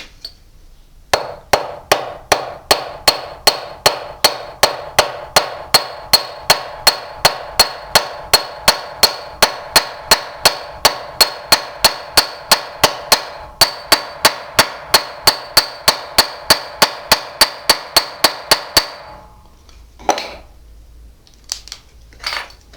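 Hammer riveting a nail on a steel bench block (tás), spreading the cut end into a rivet to hold a padlock's shackle: an even run of sharp, ringing metal-on-metal strikes, about three a second, stopping a few seconds before the end. Two lighter knocks follow.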